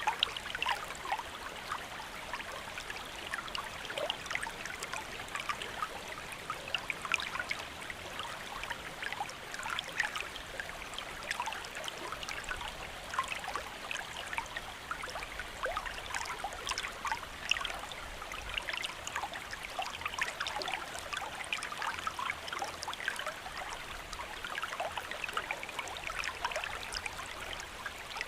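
Steady rain: a dense, even patter of many small drops, with countless tiny sharp ticks and no change throughout.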